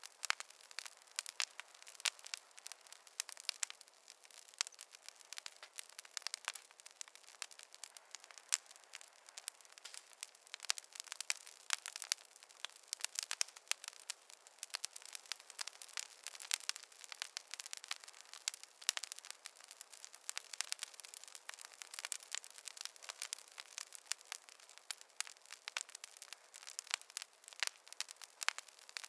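Wood fire crackling: a dense, irregular stream of sharp pops and snaps from burning logs, with no low rumble.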